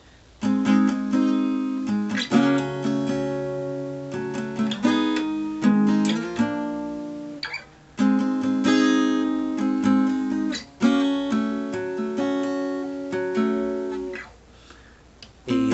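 Acoustic guitar strumming chords, each one left to ring, with a short break about halfway and a quiet pause near the end.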